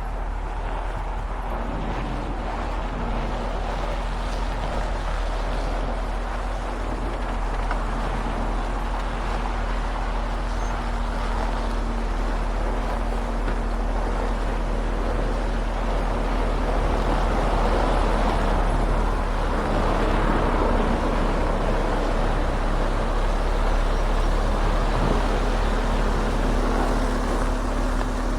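Timber truck's diesel engine running steadily under way, with road and tyre noise, growing a little louder about two-thirds of the way through.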